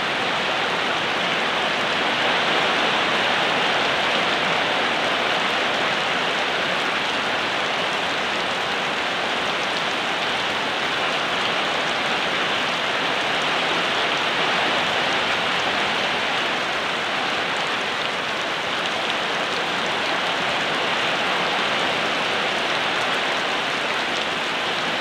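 Steady rain falling, an even hiss of drops on surfaces with no change in strength.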